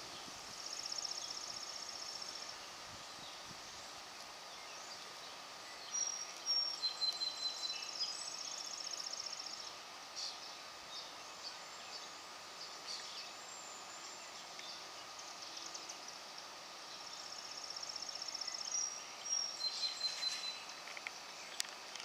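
A songbird singing outdoors: a high buzzy trill, then a few short high whistled notes and a quick run of sharp chips. The phrase comes three times, over a faint steady drone.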